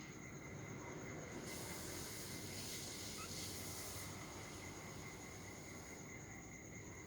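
Faint, steady insect trill at two high pitches, finely pulsed. A band of hiss rises over it from about a second and a half in and fades near six seconds.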